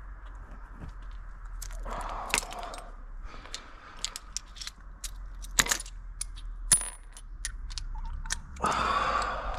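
Small metal tools and parts clinking and tapping, with one short ringing ping, broken by two bursts of scraping and rustling as someone handles them.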